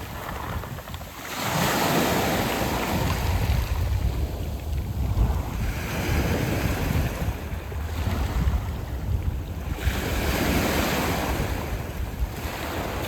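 Sea waves washing in over a beach of smooth round pebbles, each surge rushing up and draining back, one about a second and a half in and another near ten seconds. Wind buffets the microphone underneath.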